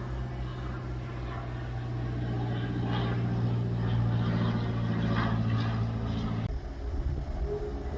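Aircraft engine droning steadily at a low pitch, cutting off suddenly about two-thirds of the way through. Music begins near the end.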